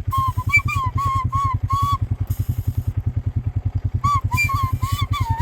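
Recorder played in short, wavering notes that stay near one pitch, in two phrases with a pause of about two seconds between them, over an engine running with a steady rapid putter.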